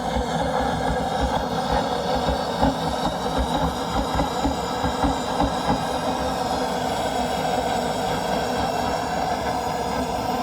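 Engine of a radio-controlled model aircraft running loudly and steadily, with a dense low flutter.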